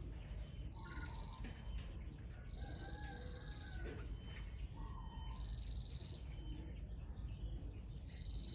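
A bird calling repeatedly, about every two and a half seconds. Each call is a high, slightly falling note held for about a second, with lower notes beneath it.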